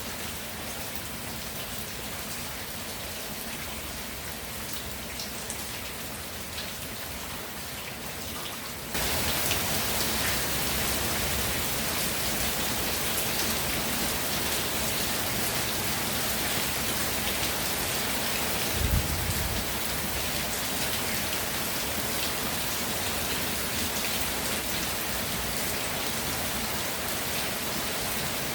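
Steady rainfall, a dense patter of raindrops. About a third of the way in it suddenly becomes louder and brighter. Past the middle there is one brief low thump.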